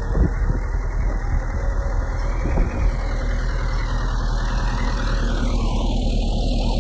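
A bulldozer's diesel engine running steadily, with a couple of short knocks near the start and about two and a half seconds in.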